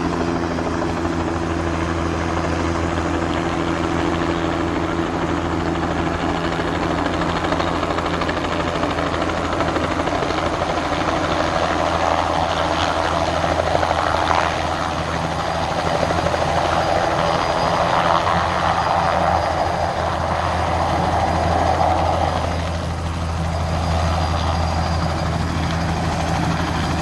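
Helicopter rotor and engine drone, steady and continuous, swelling somewhat in the middle.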